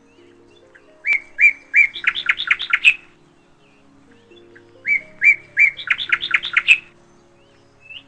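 A songbird singing two phrases about two seconds each, each opening with three spaced notes and speeding into a quick run of chirps, over soft background music.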